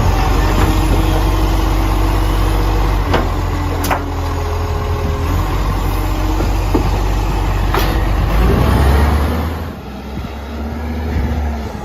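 Garbage truck's diesel engine running steadily, with a few sharp clicks or knocks over it; the engine sound drops away near the end.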